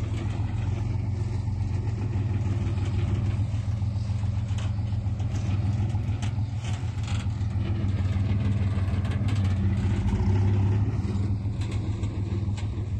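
Heavy-equipment diesel engine running steadily, with a few metallic knocks. It grows louder about ten seconds in, then eases off near the end.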